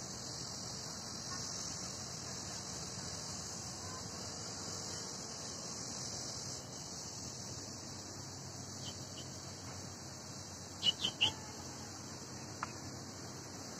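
Steady outdoor background hiss and hum with a few short, high bird chirps: a faint pair about nine seconds in, then three quick, louder chirps near the end.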